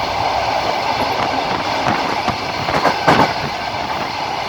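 Passenger train running along the line, its wheels clacking over the rail joints under a steady rolling rumble, with one louder knock about three seconds in; heard from inside the carriage at the window.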